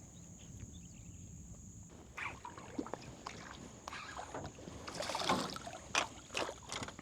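Scattered splashes and light knocks in the water, starting about two seconds in and loudest around five to six seconds.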